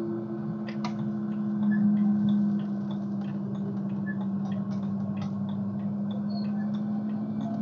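Car engine running at a steady speed with a constant drone, with light, irregular ticks and clicks scattered over it.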